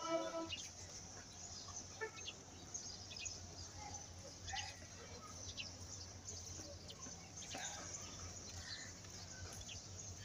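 Scattered bird chirps over a faint, low, steady hum. A held pitched tone cuts off about half a second in.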